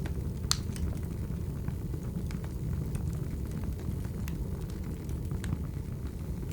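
Burning firewood crackling: a steady low rumble of flames with scattered sharp pops, the loudest about half a second in.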